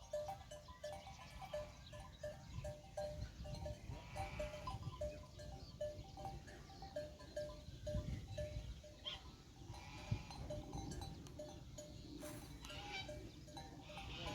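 A flock of sheep bleating, over a run of short repeated tones and a low rumble.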